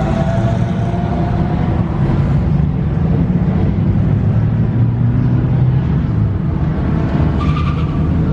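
Car engines running loudly at a street car meet: a steady low drone that shifts in pitch, with a rising whine fading out in the first second.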